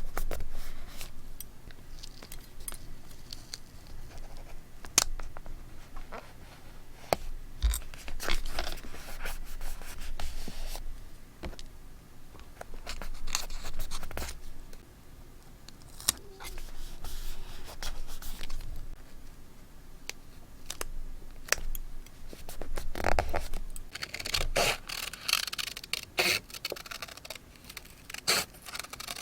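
Paper and stationery being handled for scrapbooking: paper sliding and rustling against paper, with many short sharp taps and clicks scattered throughout.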